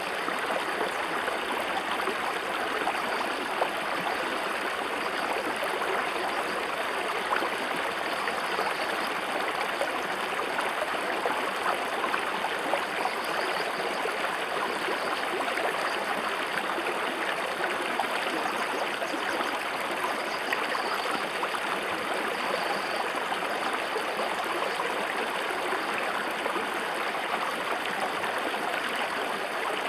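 River water rushing steadily over its bed, an even, unbroken rush of flowing water.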